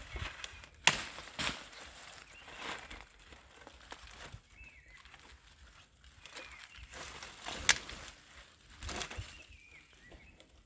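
Dry twigs and sticks cracking and forest litter rustling while dry firewood is gathered, with a few sharp snaps, the loudest about a second in and another near the end; faint bird chirps in the background.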